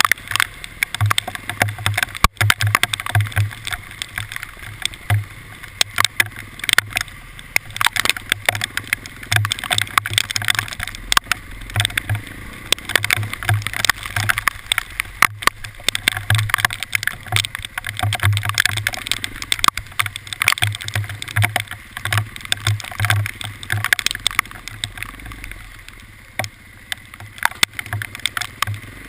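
Hailstones pelting a hard surface in a dense, irregular patter of sharp ticks, with a low rumble coming and going underneath.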